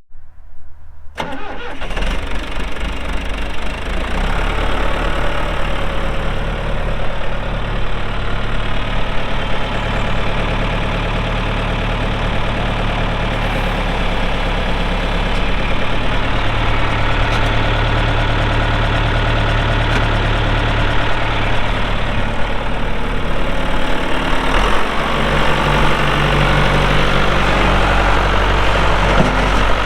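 John Deere 2555 tractor's diesel engine cranking and catching about a second in, then running steadily at idle. Its low engine note shifts near the end.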